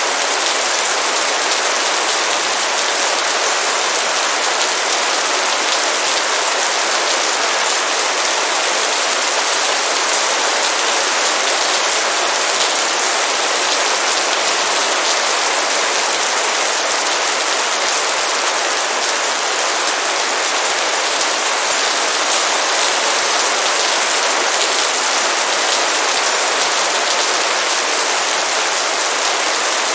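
Heavy rain pouring down steadily, a dense, even hiss of countless drops striking a surface.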